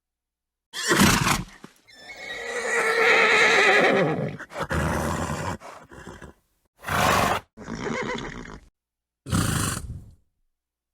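Horse sounds separated by dead silence: a short snort about a second in, then a long wavering whinny, followed by several short snorts and blows.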